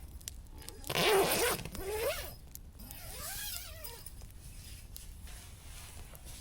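A zip being pulled, loudest in a quick stroke about a second in, with shorter zipping and fabric sounds after.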